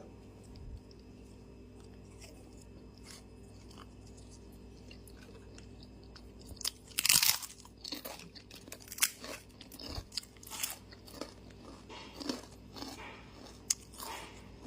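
Close-miked mukbang eating: a loud crunchy bite about seven seconds in, then steady open-mouthed chewing with sharp crunches and wet clicks.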